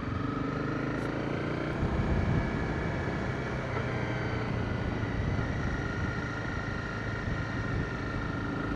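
Motorcycle engine running steadily under way, with a brief swell in level about two seconds in.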